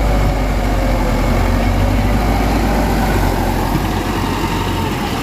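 Diesel engine of heavy road-building machinery running steadily with a deep low rumble, easing slightly near the end.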